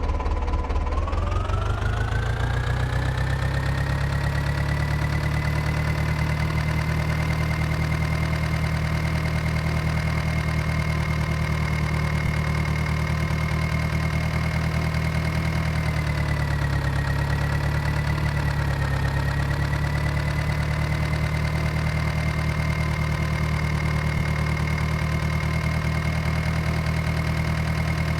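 Diesel tractor engine speeding up over the first few seconds, then running steadily at high speed. Its speed dips briefly and recovers a little past the middle.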